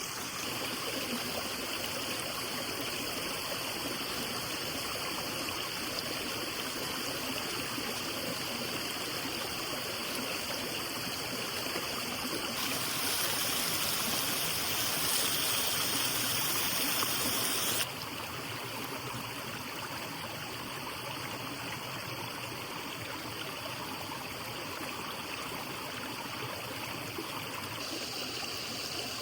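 Steady rush of a flowing stream. For about five seconds in the middle it turns louder and hissier, starting and stopping abruptly.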